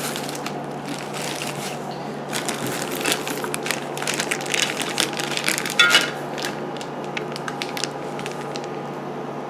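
Packaging crinkling and crackling with light clicks and knocks as exhaust parts are handled, busiest in the middle and thinning out near the end, over a steady low electrical hum.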